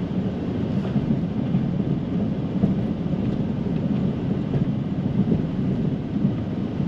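Snow-plow truck running steadily while plowing heavy, wet snow: an even, low rumble with no sharp knocks.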